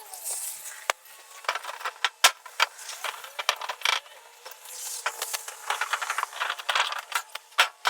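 Hand cleaning of a metal roofing panel: irregular scrubbing and wiping with many small clicks and light rattles of the sheet metal, and short patches of hiss.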